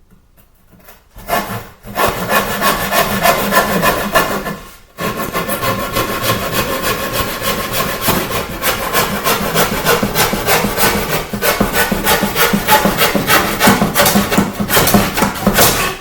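Hand saw cutting through a wooden board in quick back-and-forth strokes, about four a second. It starts about a second in and pauses briefly about five seconds in.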